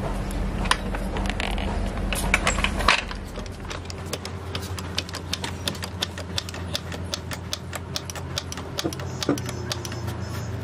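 Rapid, irregular mechanical clicking, about five or six clicks a second, over a steady low hum; a louder low rumble fades out about three seconds in.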